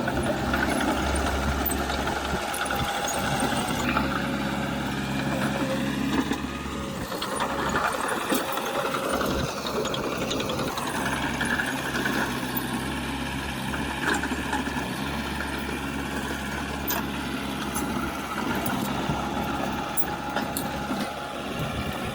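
Diesel engine of a heavy earthmoving machine running steadily, with scattered light clicks and clanks over it.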